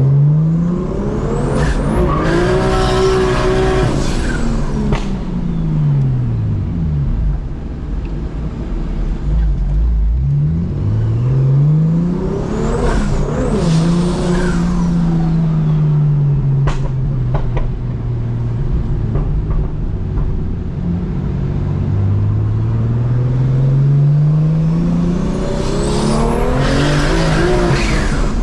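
BMW M2 Competition's single-turbo straight-six with a straight-pipe exhaust, pulling hard three times: the revs climb, then fall away, with a hiss at the top of each pull.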